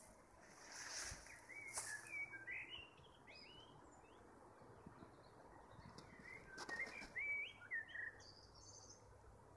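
A small songbird chirping faintly in quick, short, high notes, in two bouts a few seconds apart, with a few brief soft rustles.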